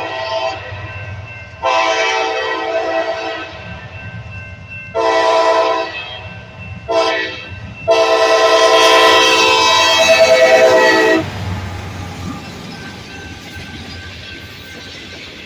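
Freight locomotive's multi-tone air horn blowing a series of blasts ending in the long, long, short, long grade-crossing signal, the last blast held about three seconds. After it the train's low rumble and wheel noise carry on steadily.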